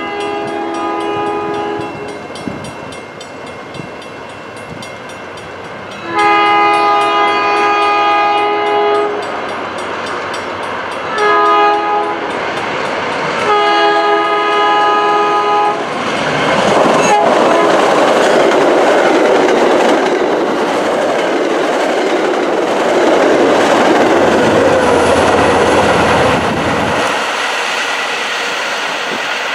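MBTA commuter train's horn sounding the grade-crossing signal: long, long, short, long. The train then rolls over the crossing with loud wheel-on-rail noise, and near the end comes the rumble of its GP40MC diesel locomotive pushing at the rear.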